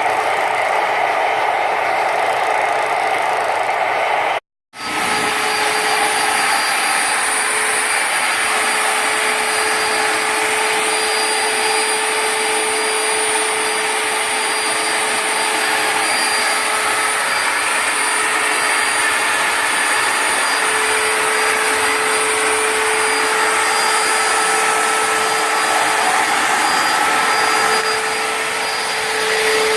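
Homemade turbocharger jet engine running: a loud steady rush of air with a high turbine whine over it. The sound cuts out completely for about half a second around four and a half seconds in, then resumes.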